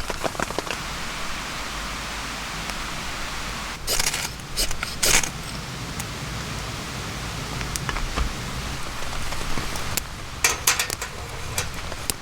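Steady rain falling, an even hiss, with a few brief louder clattering noises about four and five seconds in and again near the end.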